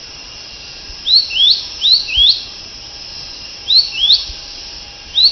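Bird chirping: four pairs of quick rising chirps, spaced unevenly, over a steady hiss.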